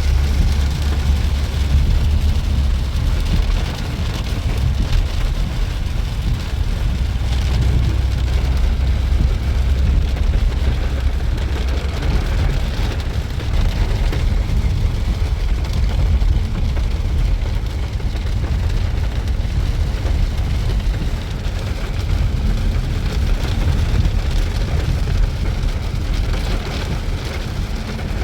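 Steady rain falling on a 2012 Honda Odyssey minivan, over a continuous low rumble.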